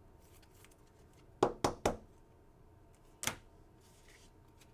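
Trading cards being handled on a table: three quick taps in a row about a second and a half in, then one more tap a little past three seconds.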